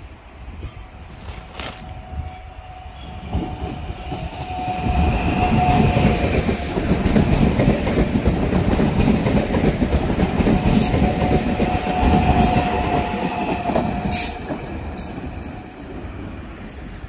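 HŽPP series 6112 Končar electric multiple unit passing close by. The rumble of its wheels on the rails builds from about three seconds in, is loudest through the middle and fades near the end, with a steady whine heard twice.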